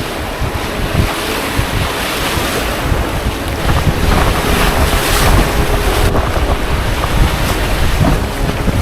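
Rushing whitewater of a river rapid with big standing waves, with occasional splashes and wind buffeting the microphone as the canoe runs through.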